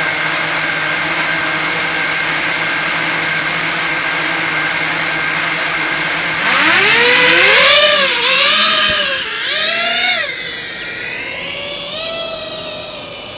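Five-inch FPV quadcopter's four brushless motors and tri-blade propellers, first spinning at a steady idle whine, then throttling up about six seconds in, the pitch swooping up and down with the throttle before dropping lower and quieter after about ten seconds.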